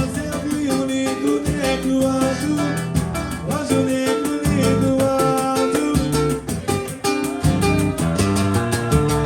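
Live samba band playing an instrumental passage between sung lines. Plucked strings carry the melody over a fast, steady percussion beat.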